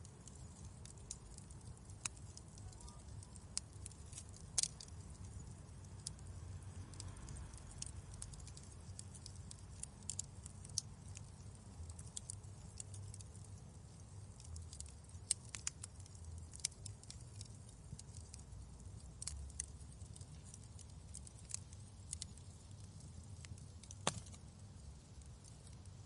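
Wood fire crackling in a fireplace: irregular sharp pops and snaps over a low, steady rumble, with a few louder snaps scattered through.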